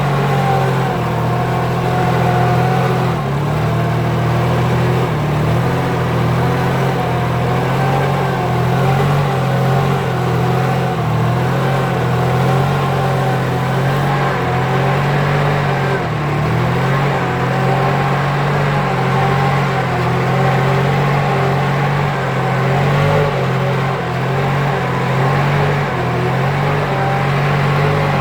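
Kubota farm tractor's diesel engine running steadily while plowing a wet rice field, its note wavering slightly as the load changes.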